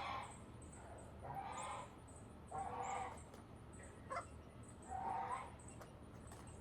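Domestic poultry calling: four calls about a second and a half apart, with a short sharp call between the last two.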